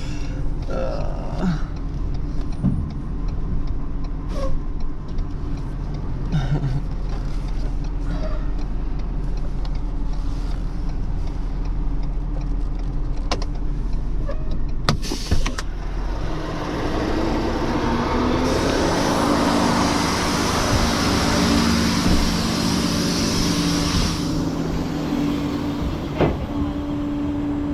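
Tow truck engine running as the truck is manoeuvred. About halfway through, a louder steady hiss with a humming whine joins in for several seconds, then stops.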